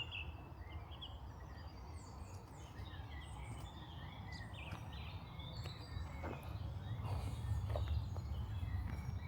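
Small birds chirping and singing in many short, high notes over a steady low rumble, with a few faint knocks in the second half.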